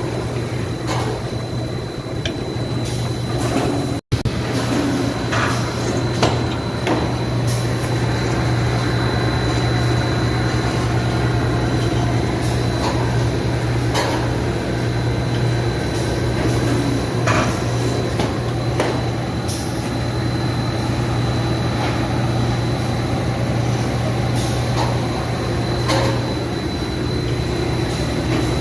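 Factory machine running: a steady low hum with a thin, steady high whine over it, and scattered knocks and clanks.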